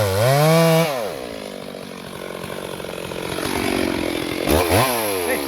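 Stihl MS 382 two-stroke chainsaw engine revving high, dropping to a lower steady run about a second in, then two quick blips of the throttle near the end.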